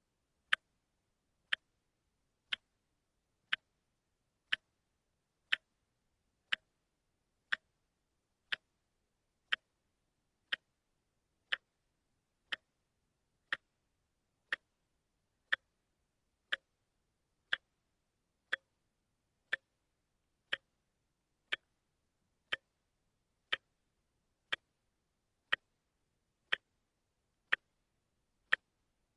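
A watch ticking steadily, one sharp click each second, evenly spaced with silence between ticks.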